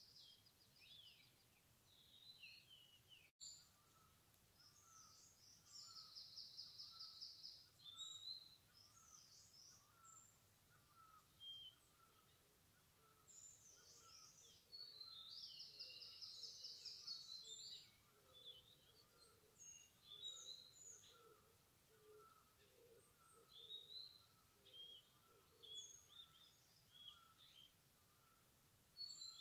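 Faint chorus of several wild birds calling and singing: scattered short chirps and whistles, two rapid trills lasting a couple of seconds each, and a lower note repeated steadily about twice a second.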